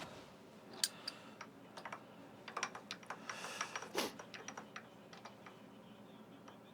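Irregular light clicks and taps, the sharpest a little under a second in and about four seconds in, with a brief hiss around three and a half seconds.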